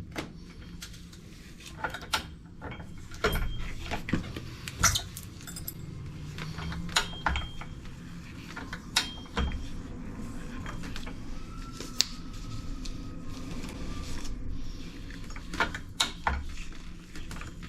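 Chain soil-pipe cutter (snap cutter) being worked on a 4-inch cast iron pipe: irregular metallic clicks and knocks as the chain is tightened around the pipe, over a low steady hum. The pipe has not yet snapped.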